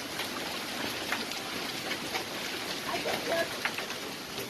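Hail and rain pelting down: a steady dense hiss with scattered sharp ticks of hailstones striking.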